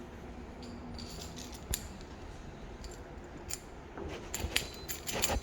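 Keys jangling and clinking on a key ring: scattered light metallic clicks that get busier and louder in the last second or so.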